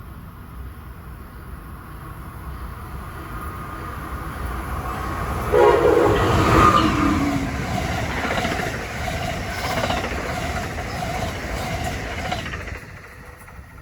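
A Northeast Corridor passenger train approaching and passing at speed, its horn sounding about five and a half seconds in and dropping in pitch as the train goes by. The rumble and clatter of the cars continues for several seconds, then falls away suddenly near the end.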